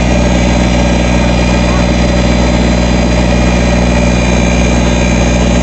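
Backhoe engine running at a steady idle, with no revving or change in pitch.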